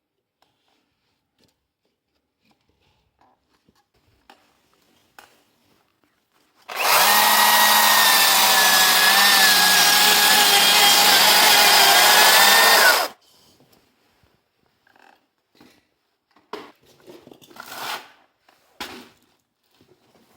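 Electric power tool cutting into wood, running steadily at a near-constant pitch for about six seconds, starting and stopping suddenly. Light knocks and handling sounds come before and after it.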